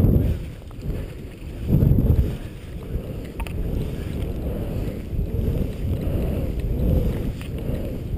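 Wind rushing over the microphone of a camera carried by a skier, with skis running on snow. The rumble swells and eases every couple of seconds.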